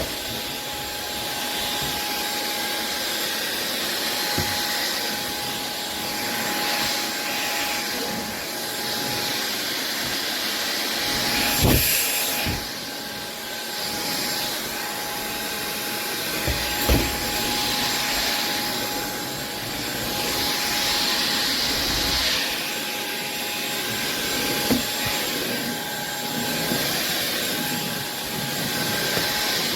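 SunSare X7A cordless stick vacuum cleaner running steadily with a thin motor whine as it picks up dog hair from a wooden floor. Its level rises and falls gently, with a few sharp knocks along the way.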